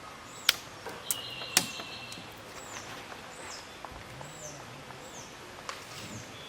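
A bird calling over and over in short, high chirps that slide downward, about two a second. Three sharp clicks or knocks in the first two seconds are the loudest sounds, and the second is followed by a brief high tone.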